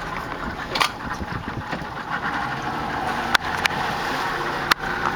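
Boat engine running steadily, with a few sharp clicks or knocks over it.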